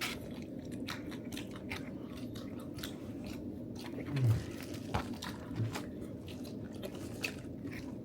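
Someone chewing and biting into pizza, with small crunches of the crust scattered through, over a steady low room hum. Two brief low murmurs from the eater come about four and five and a half seconds in.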